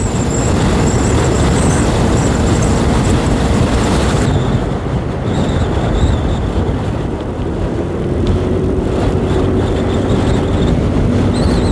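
A 125cc motorcycle cruising along a road: a steady rush of wind and road noise with a faint, even engine hum underneath, which settles a little lower about two-thirds of the way through.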